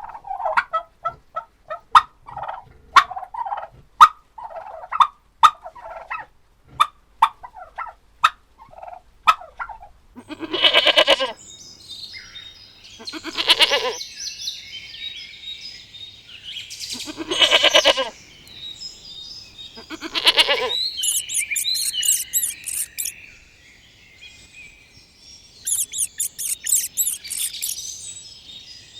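Poultry calling: a run of short clucks and clicks, then four loud calls about a second long each, spaced a few seconds apart, then high-pitched chirping near the end.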